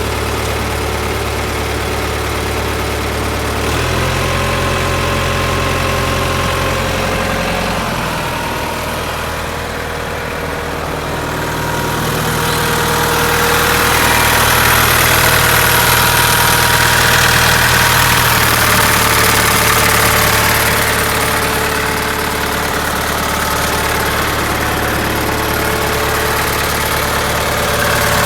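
1970 John Deere 2520 tractor engine running. Its note changes about four seconds in, eases off, and then grows louder from about twelve seconds in.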